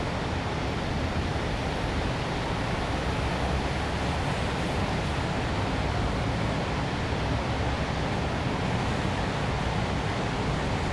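Steady city ambience: a continuous, even wash of traffic noise with no distinct events standing out.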